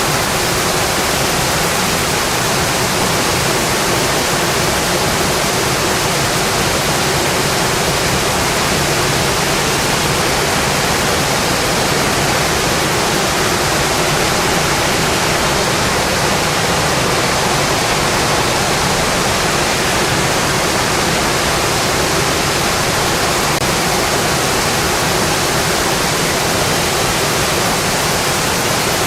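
Steady rain falling on a metal roof, a dense, even hiss with no separate drops or crackles standing out.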